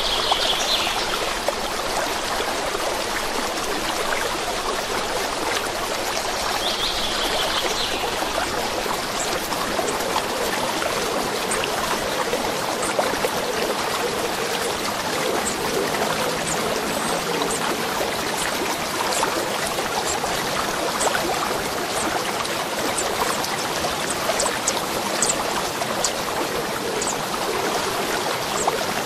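A stream flowing steadily, a continuous rush and trickle of water. Short bird calls come through just at the start and again about seven seconds in.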